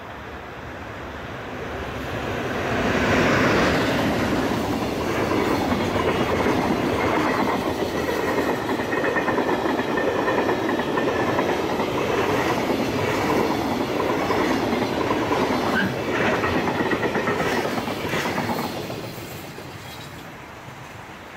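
Freight train passing, its wagons' wheels clattering over the rail joints: the sound swells over about three seconds, stays loud for some fifteen seconds, then fades away near the end.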